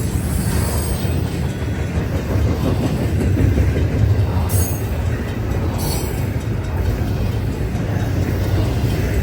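Cars of a long intermodal freight train rolling past: a steady rumble of steel wheels on the rails, with two brief high-pitched hisses about four and a half and six seconds in.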